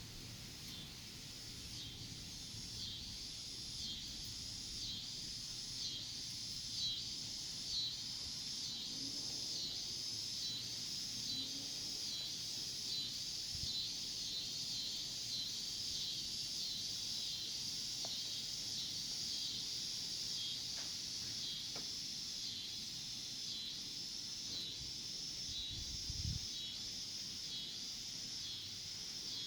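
Insects calling in a steady, high-pitched pulsing chorus, about one and a half pulses a second, over a low background rumble, with one short low thump near the end.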